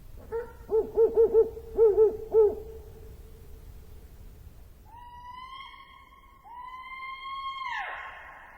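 Animal calls: a quick run of about seven short, low hoots, then two long, higher held calls, the second dropping off at its end.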